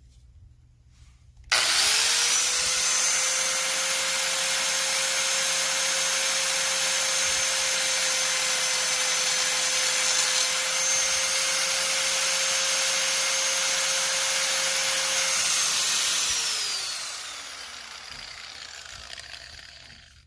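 A high-speed power tool starts abruptly, running at a steady high whine with a hiss, then is switched off and winds down with a falling pitch over a few seconds.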